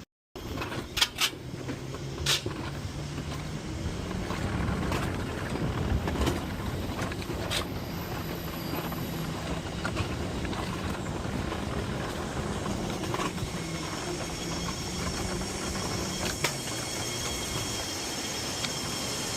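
Alpine coaster cart running along its steel rail track: a steady rumble of wheels with a low hum, after a few sharp clicks in the first couple of seconds.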